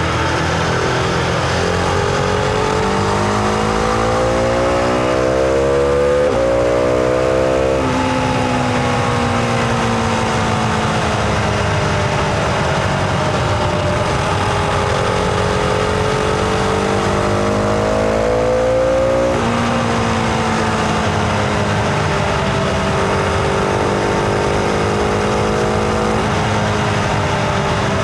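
Husqvarna Vitpilen 701's single-cylinder engine pulling on the move, heard onboard: the revs climb for several seconds, drop sharply at an upshift about eight seconds in, ease off, climb again and drop at a second upshift about twenty seconds in, then hold and slowly fall. Wind noise sits underneath.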